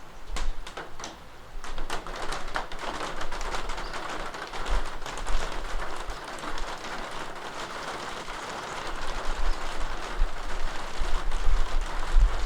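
Steady rain falling, with individual drops tapping sharply in the first few seconds over a low rumble. The rain grows louder near the end.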